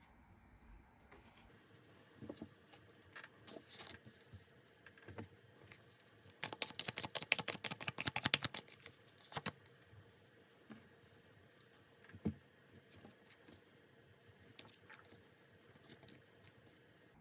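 Tarot cards being handled and shuffled: faint scattered taps and slides, with a dense run of rapid card clicks lasting about two seconds in the middle, then a few single taps as cards are set down.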